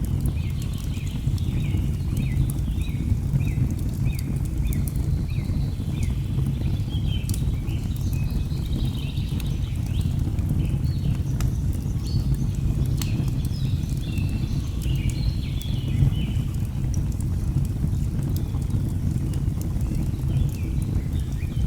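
A wood fire crackling with sharp pops over a steady low rush of a waterfall, while birds chirp in quick, repeated short calls.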